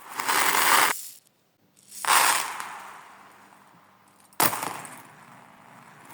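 Marbles rolling and clattering down a marble run, played backwards: two hissing swells build up and cut off abruptly, one in the first second and one near the end, and two others start sharply and die away, about two seconds in and about four and a half seconds in.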